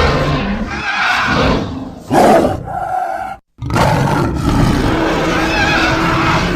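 Designed creature voice of a giant monitor lizard, layered from Komodo dragon and dinosaur sounds: a long rough growling roar, then a short sharp rising call about two seconds in. After a brief tonal call and a split-second cut to silence, another long rough roar follows.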